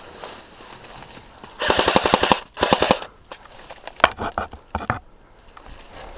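Airsoft gun firing two short full-auto bursts of rapid clattering shots, the first about a second and a half in and the second just before three seconds. A few separate sharp clicks follow about a second later.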